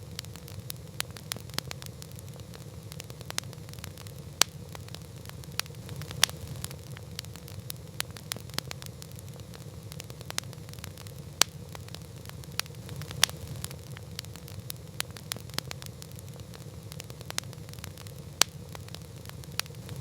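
Campfire burning with irregular sharp crackles and pops from the wood over a steady low rumble and hiss of the flames.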